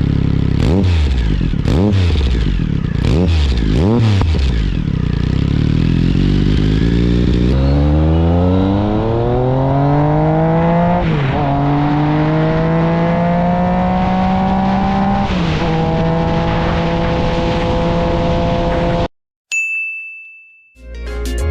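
Triumph Speed Triple 1050's inline-three engine with an SC-Project exhaust, revved in four quick blips, then accelerating hard with the pitch climbing through two upshifts and held high. It cuts off suddenly near the end, followed by a single ringing tone.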